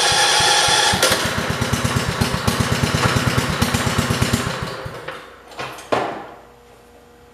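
The single-cylinder engine of a 1968 John Deere 110 garden tractor being started. A steady cranking whine gives way about a second in to a rapid, even chugging as it fires, which fades and dies out around five seconds: the cold engine, which has not run in a while, stalls. A single sharp knock follows about a second later.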